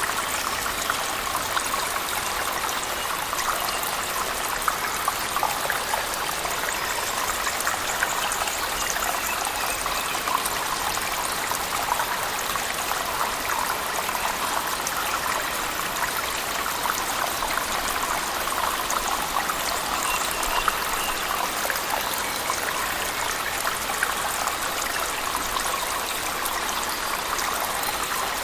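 Cave waterfall mixed with heavy rain: a steady rush of falling and splashing water, thick with individual drops and patters.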